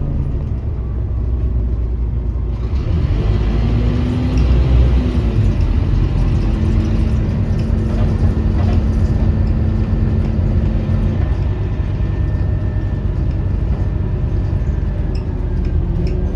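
Scania OmniCity bus heard from on board while under way: a steady low engine rumble with road noise, and an even engine tone through the middle of the stretch.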